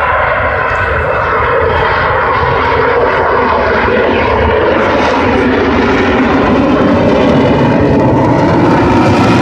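Avro Vulcan jet bomber flying past, its four Rolls-Royce Olympus turbojets a loud, steady roar that grows slowly louder.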